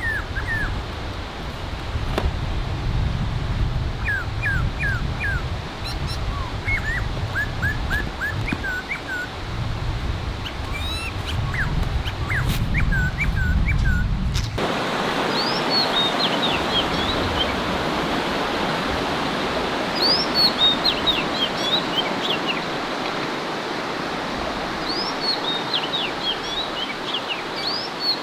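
Small birds chirping repeatedly over a low outdoor rumble. About halfway through, the background switches abruptly to the steady rush of flowing water, with higher-pitched birdsong over it.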